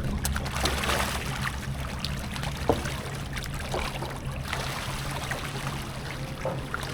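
River water splashing and trickling over a steady low hum, with scattered small splashes and ticks and one sharper knock about two and a half seconds in.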